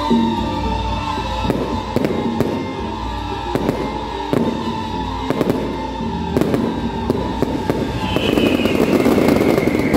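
Fireworks going off: sharp bangs at irregular intervals, then from about eight seconds in a dense, louder crackling.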